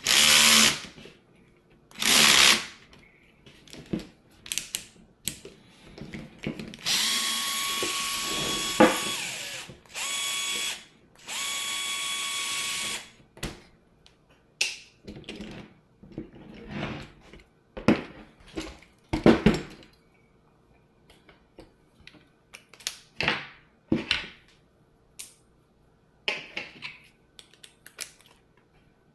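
Small electric drill or driver running in short bursts and then in three longer steady runs with a constant whine, most likely driving screws or nuts. Scattered clicks and knocks of small parts and tools being handled sound between the runs.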